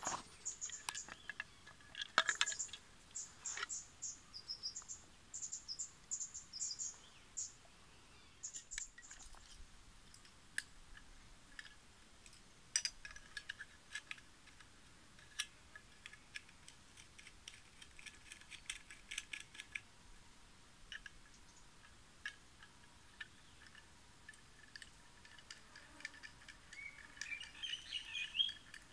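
Birds chirping in short repeated calls, with scattered light clicks and taps as gear is handled.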